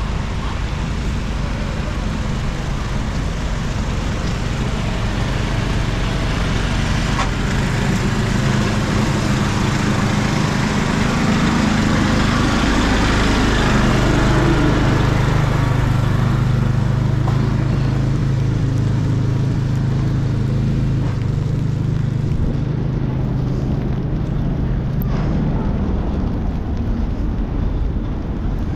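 City street traffic noise with a steady hiss. A vehicle's engine drone grows louder toward the middle and fades in the second half.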